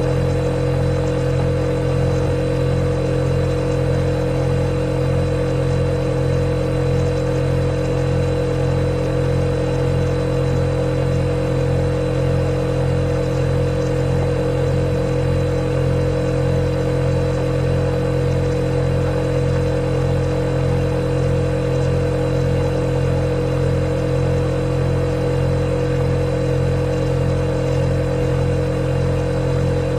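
Refrigerator compressor running with a steady low hum and fainter hiss.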